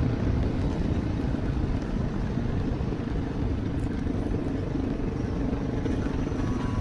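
Dirt bike engine running steadily, a low, even sound with no change in pace.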